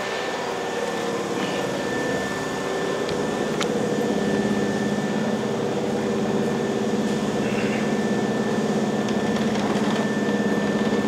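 Steady hum of a stopped Hankyu electric train's onboard equipment at a station platform. It holds a few fixed tones, and the low tone grows slightly louder about four seconds in.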